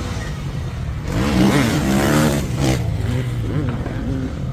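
Motorcycle engine revving, its pitch rising and falling a couple of times over a steady low rumble.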